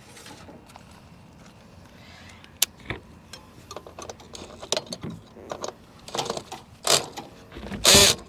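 Irregular clicks, knocks and rustling of something being handled and worked open, growing busier after the first few seconds, with a loud rustling burst near the end.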